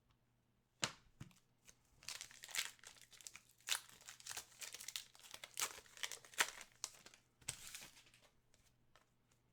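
Crinkling and rustling of a trading card pack's wrapper and cards being handled, with a click about a second in and a stretch of irregular rustles that dies away near the end.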